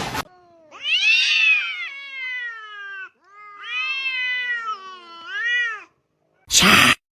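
A cat meowing: two long drawn-out meows that rise and then fall in pitch, followed by a short meow. A brief loud rush of noise comes near the end.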